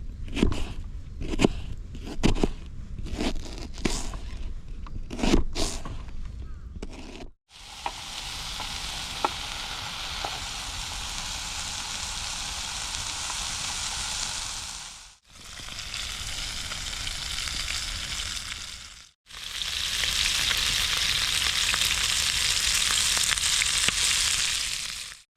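Chicken thighs sizzling in a pan over a campfire, a steady frying hiss broken by three sudden cuts. It opens with a run of separate knocks and clicks lasting about seven seconds.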